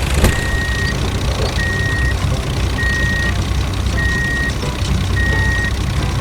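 A vehicle's reversing alarm beeping five times, about once every 1.2 seconds, over a steady low engine rumble.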